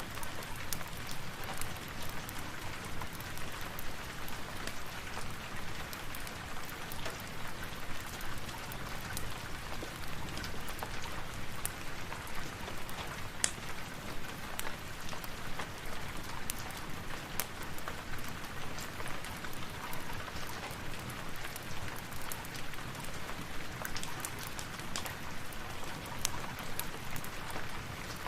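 Steady rain falling, with many scattered sharp clicks throughout.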